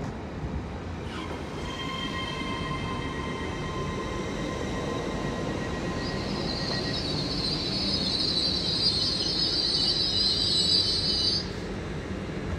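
GWR Class 800 Intercity Express Train running past along the platform: steady rumble with a whine that sets in about a second in. A loud high-pitched squeal joins about halfway through and cuts off suddenly near the end.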